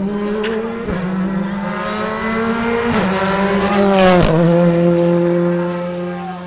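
Rally car engine accelerating hard, its note climbing and then dropping sharply at upshifts about one, three and four seconds in, with a short crack at the last shift. After that it holds a steady, slowly easing note.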